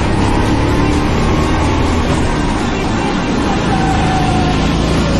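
Go-kart engine running on track, its pitch rising and falling gently with the throttle, under a bed of background music.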